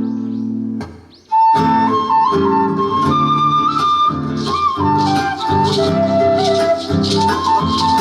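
Andean-style music: a held guitar chord stops just under a second in, and after a short pause a quena melody comes in over strummed guitar, with a shaker joining partway through.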